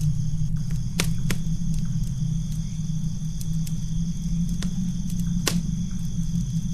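Campfire crackling: scattered sharp pops, the loudest about a second in and again near the end, over a steady low rumble and a constant high-pitched hum.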